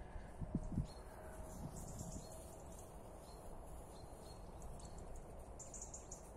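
Outdoor ambience with small birds chirping in clusters of short, high calls over a steady low background hum. A couple of low thumps come about half a second in.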